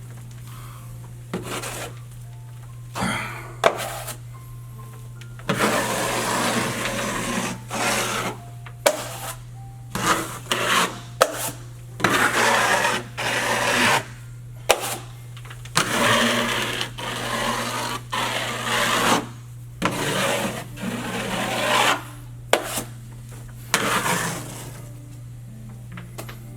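Drywall blade scraping quick-setting joint compound across a wall in repeated long strokes of one to two seconds, with sharp taps and clicks between strokes. A steady low hum runs underneath.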